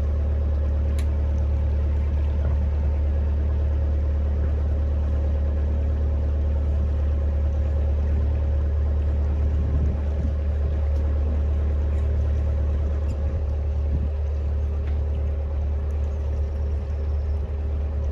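Narrowboat engine running steadily while cruising, a constant low drone with a steady hum above it.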